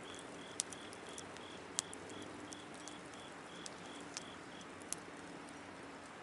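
Wood fire crackling, with scattered sharp pops. An insect chirps steadily behind it at about three short high pulses a second, stopping about two-thirds of the way through.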